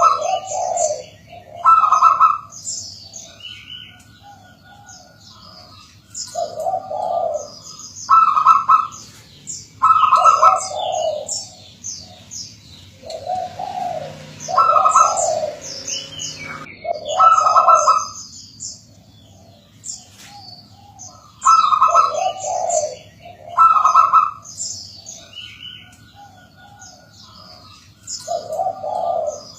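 Zebra dove (perkutut) cooing: repeated phrases of soft coos, with a lower note and a higher note, coming every couple of seconds. Higher, thinner bird chirps sound over the coos.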